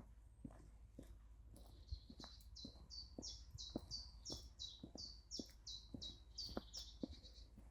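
A songbird singing a run of about a dozen quick repeated high notes, each sliding down in pitch, two to three a second, starting a couple of seconds in. Soft footsteps on a path tick along underneath at a walking pace.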